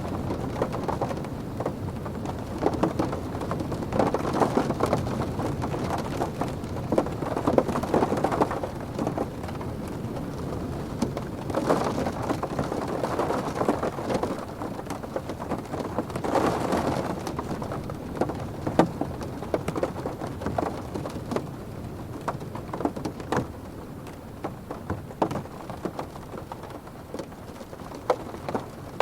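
Rain drumming on a car's roof and windows, heard from inside the cabin: a dense patter of drops with sharp individual hits, swelling louder in several gusts and easing slightly near the end.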